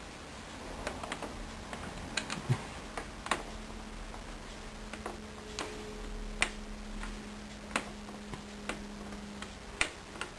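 Hoover Dynamic Wash washing machine giving sharp clicks at uneven intervals, about a dozen in all. A low steady hum comes in after a louder thump about two and a half seconds in.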